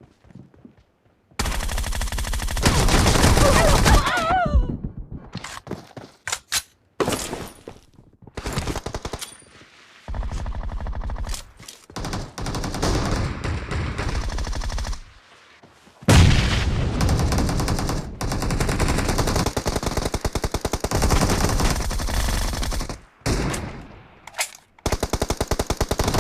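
Video game gunfire: long bursts of rapid automatic fire, starting about a second and a half in and broken by short gaps, with the longest unbroken burst a little past the middle.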